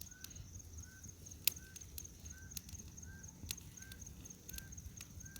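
Faint night ambience: a steady high-pitched cricket trill and a short chirping call repeating about every three-quarters of a second, with a few sharp cracks of wood snapping in a newly lit bonfire.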